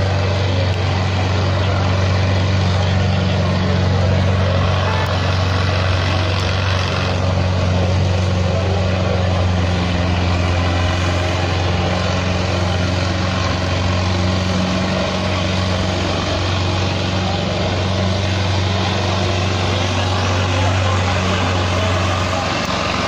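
Indo Farm 3055 tractor's diesel engine running hard and steady under the load of a pulling contest, a deep even drone that shifts slightly near the end.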